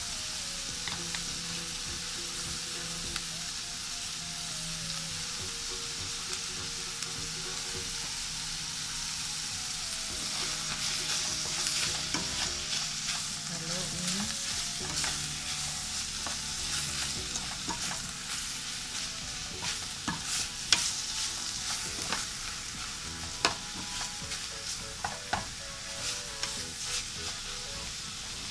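Canned tuna and onions frying with a steady sizzle in a stainless steel pan, stirred with a spatula. From about halfway on, the spatula scrapes and clicks against the pan more and more often.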